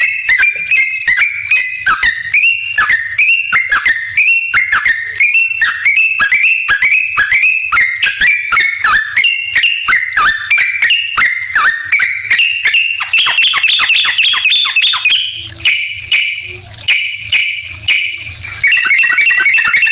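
Sooty-headed bulbul (trucukan) singing a fast run of short, bright chattering notes, three or four a second, growing denser and higher-pitched about two-thirds of the way through, over a faint low hum.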